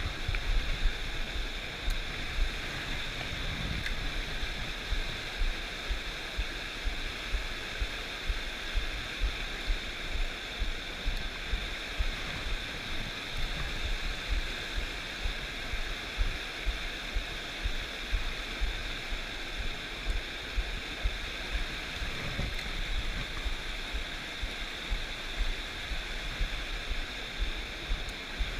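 Trout stream rushing steadily over rocks, with frequent short low bumps on the microphone.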